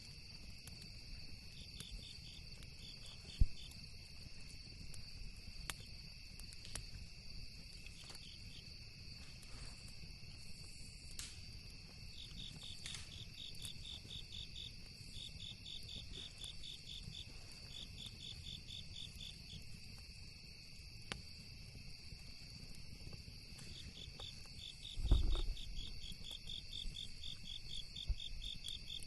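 Crickets and other night insects chirping in a steady high drone, with bursts of fast pulsing trills that come and go. Over it are sparse crackles and pops of a campfire, one sharp pop about three seconds in and a low thud near the end.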